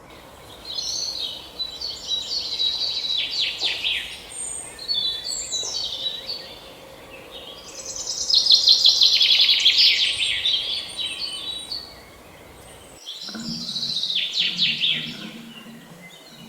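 Songbird singing long phrases of rapid, sweeping chirps and trills, with short pauses between them; the loudest phrase comes about eight seconds in.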